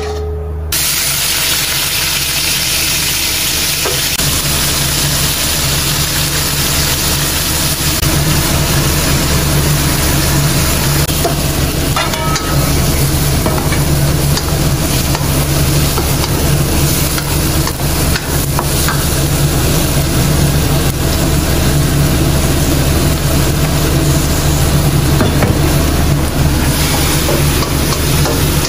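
Meat, leek and chillies sizzling in a wok over a gas burner as they are stirred with a wooden spatula, over a steady low hum.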